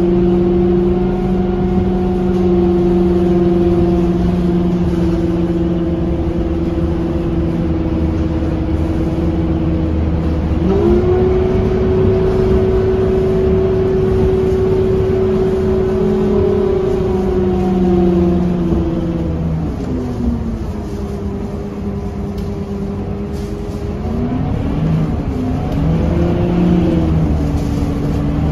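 Scania K230UB city bus's five-cylinder diesel engine and drivetrain running under way with a steady hum. The pitch steps up about eleven seconds in, falls as the bus slows a little past halfway, and rises again near the end as it speeds up.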